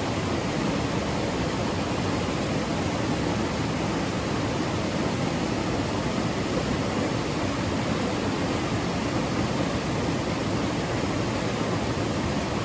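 Steady rushing water, an even hiss and rumble with no separate splashes or drops standing out.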